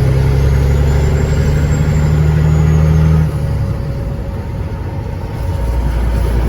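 Cat 3406E diesel in a Freightliner FLD120 semi truck pulling steadily, heard from inside the cab. The engine note drops off about three seconds in, then builds back up near the end.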